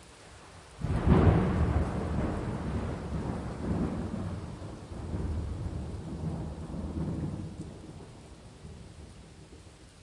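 Thunder: a sudden loud clap about a second in, rolling on in several deep swells and slowly fading away, over a steady hiss of rain.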